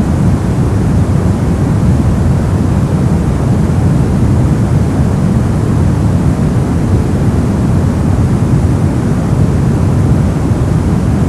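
Brown noise: a steady, even deep rumbling hiss, strongest in the low end, with no changes or events.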